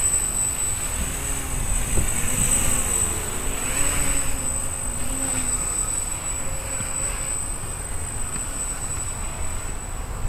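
X250 quadcopter's motors and propellers buzzing in flight in self-level mode, their pitch wavering up and down as the flight controller corrects against gusts. Wind rumbles on the microphone underneath.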